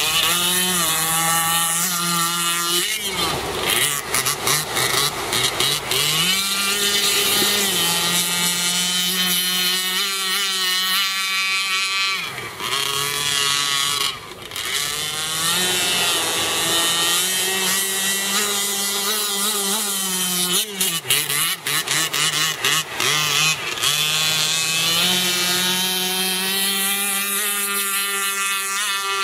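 Zenoah 26cc two-stroke gasoline engine with a tuned exhaust driving an RC racing boat, running at a high, wavering pitch. The note falls away and comes back three times, about 3, 12 and 21 seconds in, as the throttle comes off and on.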